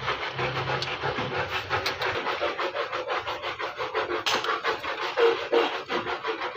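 Rapid, rhythmic rubbing strokes, several a second, like hand-sanding or scraping a car body panel. A low hum runs under them for the first two seconds.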